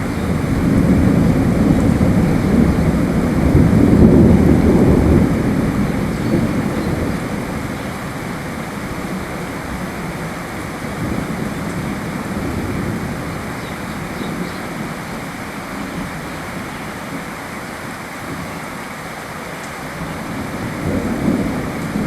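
Steady rain with a long roll of thunder. The thunder swells at the start, peaks about four seconds in and slowly fades, and a smaller rumble comes back near the end.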